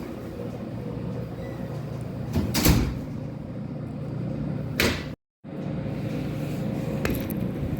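Car doors thudding shut twice, about two and a half and five seconds in, over the steady low rumble of a running car. The sound drops out completely for a moment just after the second thud.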